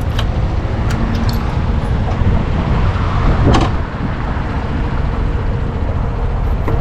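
250cc gas motorcycle engine running with a steady low rumble, rising briefly about three and a half seconds in.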